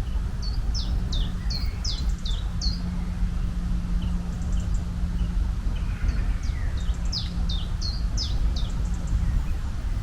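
A songbird singing two phrases of quick, high, downward-sweeping notes, one near the start and one about seven seconds in, over a steady low rumble.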